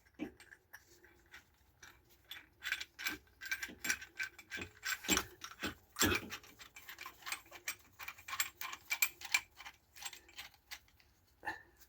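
Metal hand tools clicking and clinking in irregular bursts of sharp little clicks, like a ratchet or tool parts being worked by hand.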